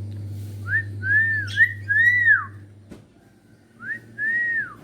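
Hill myna whistling: clear, arching notes, four in quick succession, then two more after a pause of about a second and a half.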